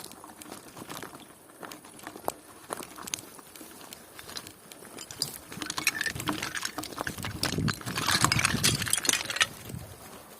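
Bicycle rattling and clinking as it rides over bumps: a string of sharp clicks that grows louder and busier for a few seconds past the middle.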